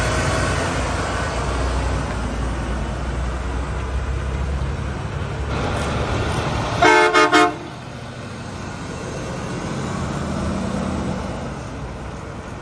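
Heavy truck engine running steadily, then a loud vehicle horn sounds three short toots about seven seconds in, after which only quieter road noise remains.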